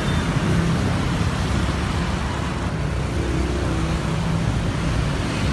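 Car engine running at a steady speed: a low, even hum under a wide rushing noise.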